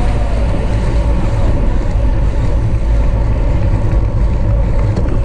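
Steady, loud wind rumble on the microphone of a bicycle moving at race speed, with tyre and road noise underneath.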